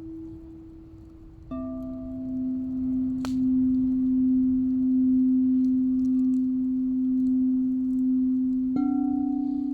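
Quartz crystal singing bowls ringing in long, pure tones. The first tone fades, a lower bowl starts sharply about a second and a half in and swells into a long, steady tone, and a slightly higher bowl joins near the end. A single brief click comes partway through.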